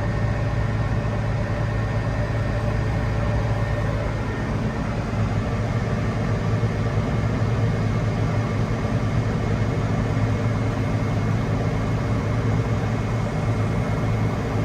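Tractor engine running steadily with a constant low drone, its tone shifting slightly about four seconds in.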